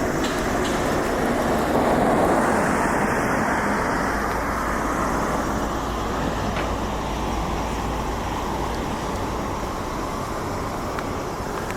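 Road traffic: a vehicle passes close, loudest about two seconds in, then fades into a steady background hum of traffic.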